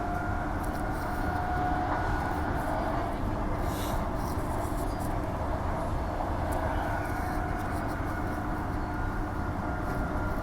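Inside a Transperth A-series electric multiple unit in motion: a steady low rumble of the wheels on the rails, with a faint steady whine on top.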